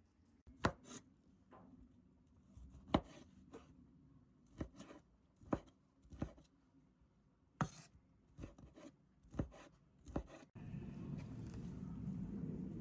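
A series of sharp knocks, about a dozen at uneven intervals. About ten and a half seconds in they give way abruptly to a steady rushing noise.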